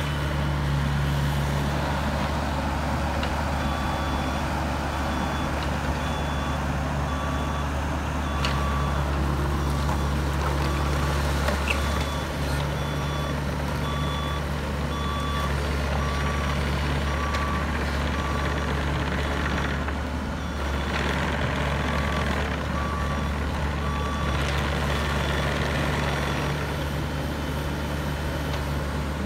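Bobcat E26 compact excavator's diesel engine running steadily under work, with its travel alarm beeping at an even pace from a few seconds in until near the end. There are a few brief knocks of the machine working.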